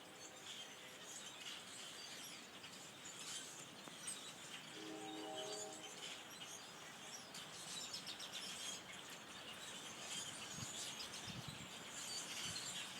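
A huge flock of blackbirds calling together: a dense, continuous chatter of many overlapping high chirps. A brief low hum sounds about five seconds in.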